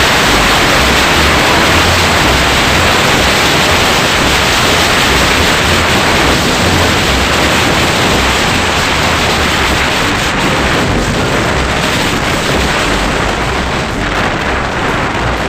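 Loud wind rush and buffeting on the microphone of a moving motorcycle, a steady roar with gusty low thumps underneath that eases slightly near the end.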